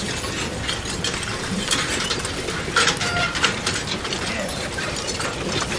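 Mechanical clicking with scattered light metallic clinks over a steady noisy background, from a tool's mechanism.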